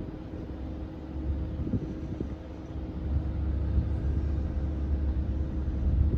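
Army UH-60 Black Hawk helicopter running, a low rumble with a steady hum that grows louder about halfway through.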